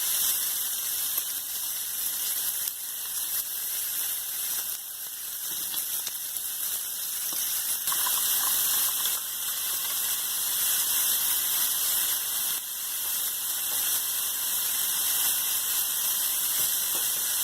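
Food frying in hot fat in a pan, a steady high sizzle: a steak and a butter-and-mushroom sauce with fresh tomatoes cooking.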